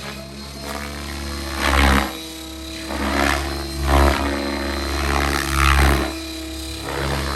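Electric RC helicopter (Miniature Aircraft Whiplash 730 on 690 mm blades) in flight: a steady motor and gear whine of several tones under the rotor's noise. The rotor noise swells loud about every two seconds, four times.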